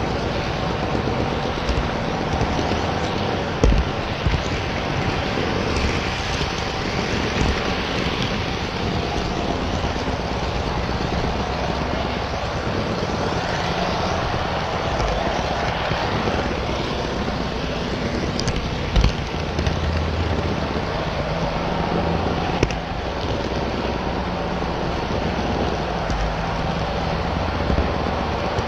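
HO scale model train running on the layout: a steady rolling rumble of wheels and motor, with a few short knocks.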